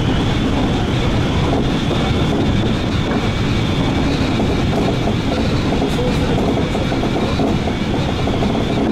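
Seibu 2000 series electric train running steadily between stations, heard from inside the car: a constant rumble of wheels on the rails with a faint high whine.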